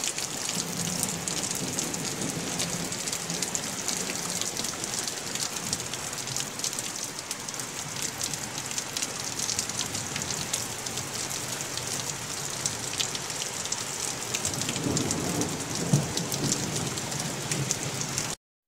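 Heavy rain pouring steadily, with dense pattering of drops on grass and wooden planks and low rumbles of thunder underneath, strongest about fifteen seconds in. The sound cuts off abruptly just before the end.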